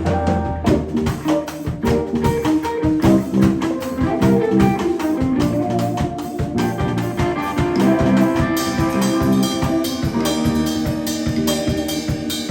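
Live band jamming: a drum kit keeps a steady beat under guitar lines.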